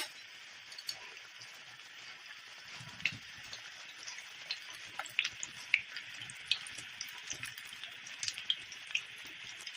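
Nimki dough strips deep-frying in hot oil: a steady sizzle with frequent sharp pops and crackles, which get busier after a few seconds.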